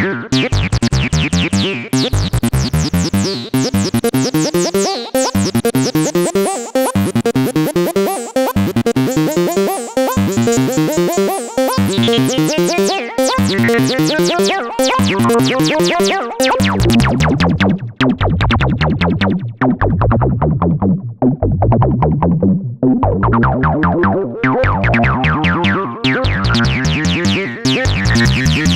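Moog Subsequent 37 analog synthesizer playing a sequenced acid bassline: a fast run of short repeating bass notes with the filter sweeping open and shut. The filter closes down to a darker, duller tone past the middle and opens bright again near the end.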